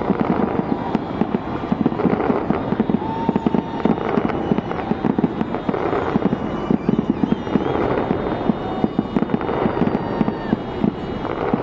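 Fireworks going off in a dense, continuous barrage, with booms and crackles following each other several times a second and no pause between them.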